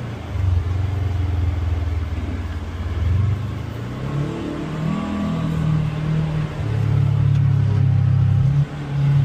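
Polaris Xpedition UTV engine running steadily on the trail. The revs drop at the start, climb about four to five seconds in, then hold steady higher, with a brief dip near the end.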